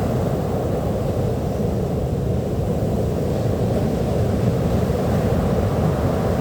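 Sea surf on a beach: a steady, low rumble of waves with no single breaker standing out.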